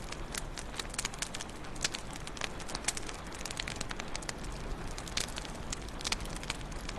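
Wood fire crackling: irregular sharp pops and snaps, several a second, over a steady low hiss of the flames.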